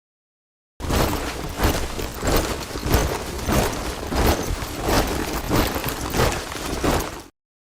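A body of soldiers marching in step, their boots striking the ground together in an even beat of about one tramp every 0.6 seconds. It starts after a moment of dead silence and cuts off abruptly near the end.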